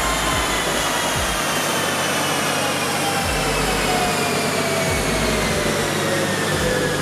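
Nissan Skyline GT-R (R32) spinning the rollers of a chassis dyno as it coasts down after a run. A whine falls slowly in pitch over a steady rush, with a few low thumps.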